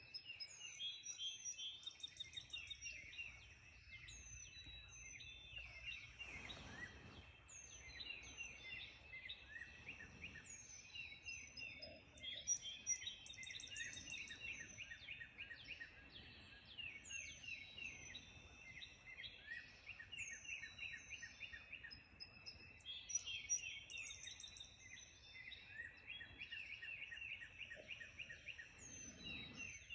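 Morning chorus of many songbirds singing at once: a dense, unbroken stream of overlapping chirps, trills and quick whistled phrases.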